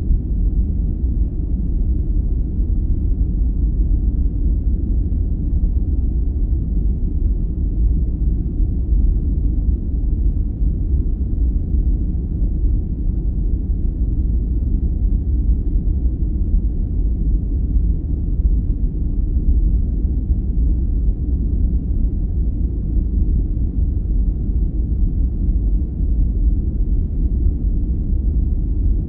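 Steady sleep-aid noise track, billed as white noise but deep and rumbling, with no high hiss, no rhythm and no changes.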